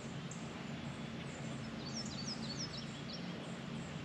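Birds chirping a quick run of short, falling high notes about two seconds in, over steady open-air background noise.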